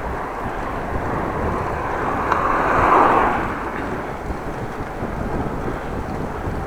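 Wind buffeting the microphone of a bicycle-mounted camera while riding, a steady rushing noise, with a louder swish of noise rising and fading about two and a half to three and a half seconds in.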